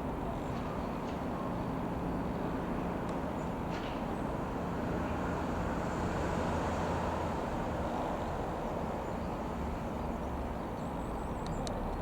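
Steady drone of the Ikarus C-42 microlight's piston engine in flight. It swells a little louder around the middle as the plane passes.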